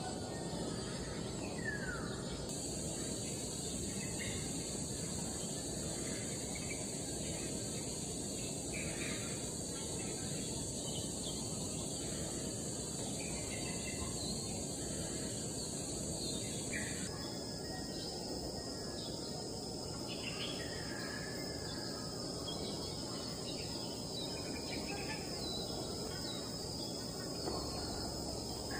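Steady high-pitched insect drone, such as crickets or cicadas, that changes in tone twice, with scattered short bird chirps over it and one falling call about two seconds in.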